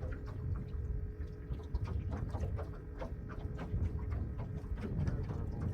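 Wind buffeting the microphone, a steady low rumble, with a faint constant hum and many short clicks and taps scattered through it.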